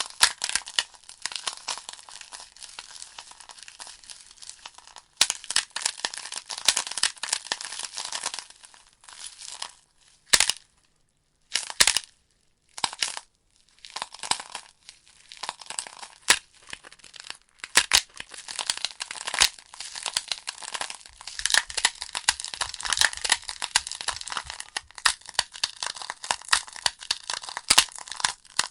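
Logs burning in a fireplace, crackling: dense snapping and popping over a hiss. About ten seconds in it thins to a few single sharp pops with near quiet between them, then picks up thickly again and stays busy to the end.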